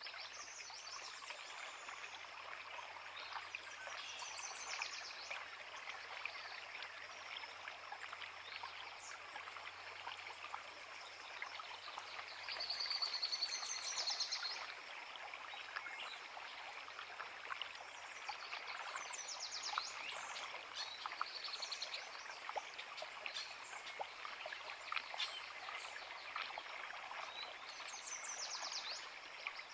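A creek running over rocks, a steady rush of water, with songbirds singing short high phrases every few seconds.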